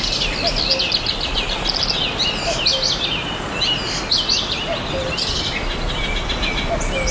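Many songbirds chirping and trilling in quick, overlapping calls, over a steady even rush of background noise.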